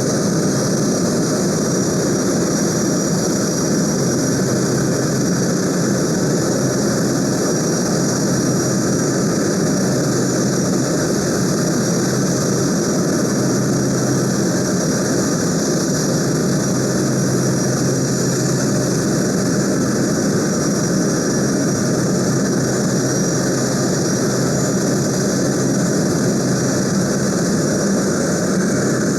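Boeing C-17A Globemaster III's four Pratt & Whitney F117 turbofan engines running steadily on the ground: a loud, even rumble with a steady high whine over it.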